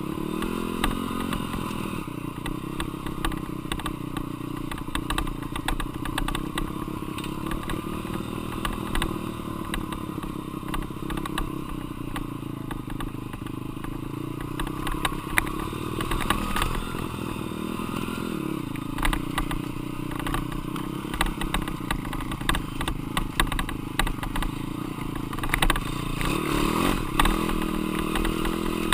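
Four-stroke single-cylinder dirt bike being ridden, its engine pitch rising and falling with the throttle. Rattling and knocks from the bike run through it.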